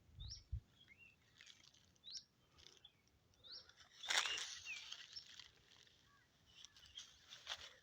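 Faint bird calls: short, scattered chirps, some rising and some falling, with a brief rustle about four seconds in.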